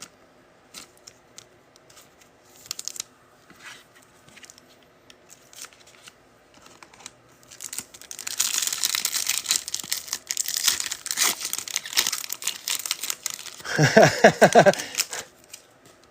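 A foil trading-card pack wrapper is torn open and crinkled. It starts about halfway through after some faint handling clicks, and the loudest tearing comes near the end.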